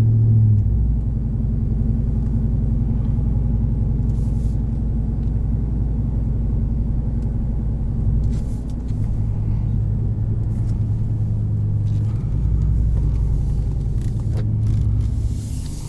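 Pickup truck engine and aftermarket Carven exhaust droning under way. The low note drops and comes back a few times as engine speed changes.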